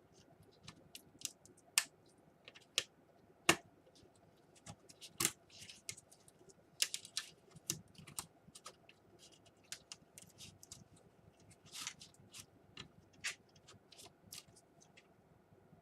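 Irregular small clicks and taps of plastic laptop parts being handled, as the speaker inside an opened Dell Inspiron 11 is worked loose. There are a few dozen clicks, some louder than others, with a short soft scrape about twelve seconds in.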